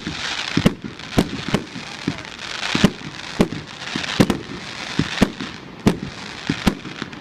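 Fireworks display: a rapid run of sharp bangs, about two a second, over a continuous crackling hiss from crackle effects.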